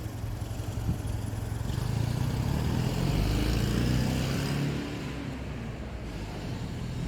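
A motor vehicle passing by: its engine and road noise build up and fade away about five seconds in.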